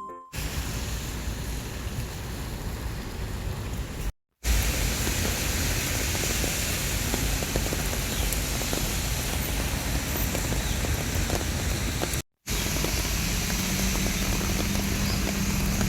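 Steady rushing noise, broken by two abrupt cuts to silence about four and twelve seconds in; a faint low hum joins it near the end.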